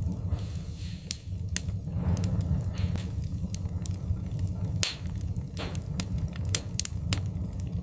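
Wood fire crackling: irregular sharp pops and snaps over a steady low rumble, with a few soft hissing swells.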